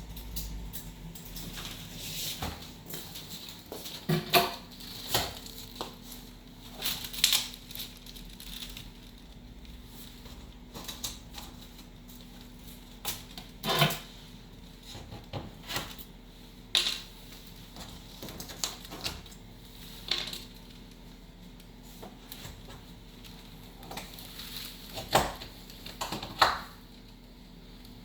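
Irregular knocks, scrapes and crackles of TV packaging being handled and opened, with several louder knocks scattered through, over a faint steady hum.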